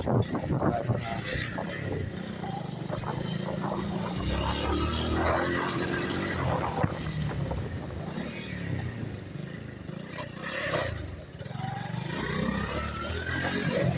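Motorcycle engine running while being ridden through a narrow lane, its pitch rising and falling with the throttle, with a rising whine near the end.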